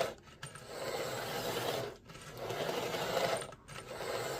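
Tyco Mantua F7 model locomotive's motor and gears running with a rasping whir as it rolls along the track, now running again after its broken solder joint at a motor contact was repaired. The sound comes in stretches with brief drops, about two seconds in and again near the end.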